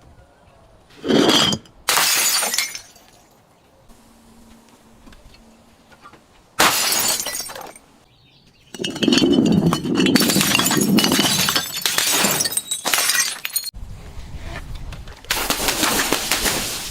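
Glass bottles breaking again and again: short shattering crashes about a second in, at two seconds and near seven seconds, then several seconds of continuous breaking and crunching glass, and another burst near the end.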